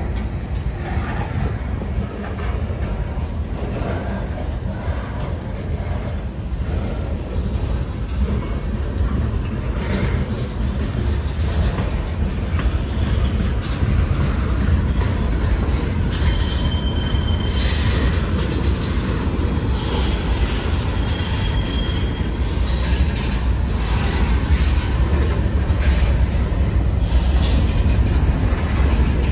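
Freight train boxcars and covered hoppers rolling past: a steady low rumble of steel wheels on rail with a rapid clatter of clicks from the wheels and couplers. There are two brief high-pitched wheel squeals about halfway through.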